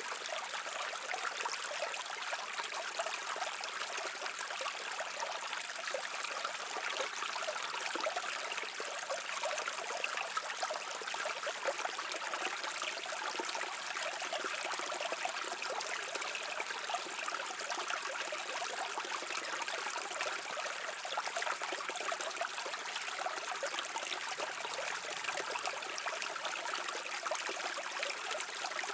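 A stream flowing steadily, water trickling and babbling over rocks.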